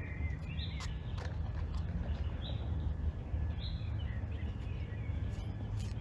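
Birds calling outdoors, short repeated calls every second or so, over a steady low rumble of outdoor background noise.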